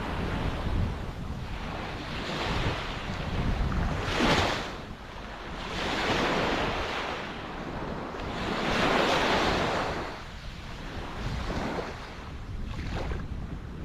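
Ocean waves breaking and washing ashore, surges of surf swelling and fading every few seconds, with the sharpest crash about four seconds in. A low wind rumble on the microphone runs underneath.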